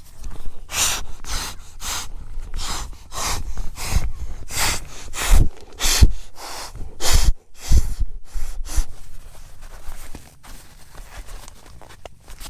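Footsteps, about two a second, some landing heavier around the middle, stopping about nine seconds in.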